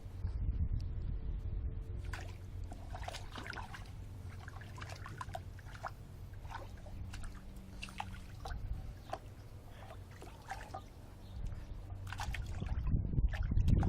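Water in a bird bath splashing and sloshing in short, irregular splashes and drips as a Boston terrier–French bulldog mix plays in it.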